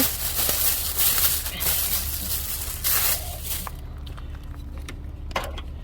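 Rustling and crackling of packaging as a new cabin air filter is unwrapped and handled, easing after about three and a half seconds to a few light clicks and handling noises. A steady low hum runs underneath.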